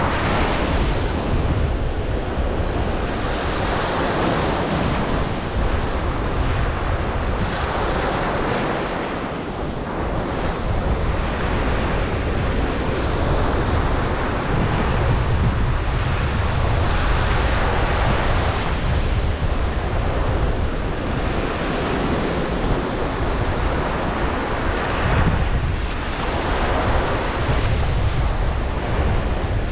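Ocean surf washing onto a beach: a continuous roar of breaking water that swells and eases as each wave comes in every few seconds.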